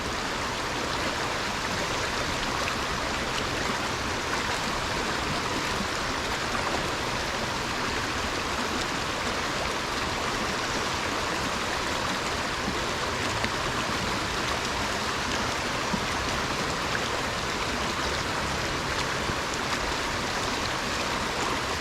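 Small stream running over rocks and riffles: a steady, even rush of water.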